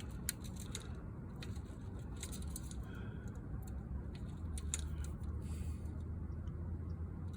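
Scattered light clicks and small metallic taps from handling, over a low steady hum.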